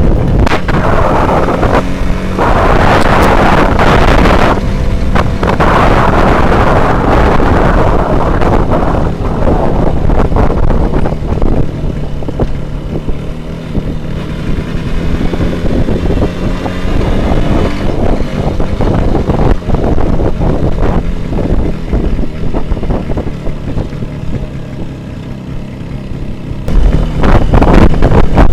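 Motorcycle engine running while riding, with wind buffeting the microphone. The rush of wind is heaviest in the first few seconds, eases through the middle and picks up again near the end.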